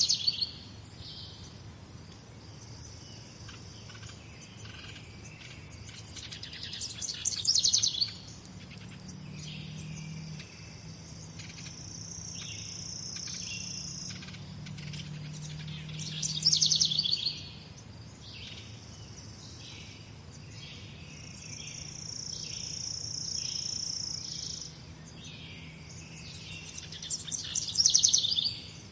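Songbirds singing in a morning chorus: one bird repeats a loud, roughly one-second song phrase about every nine to ten seconds, with shorter chirps from other birds in between. A steady high buzz is held for a few seconds twice, in the middle and later on.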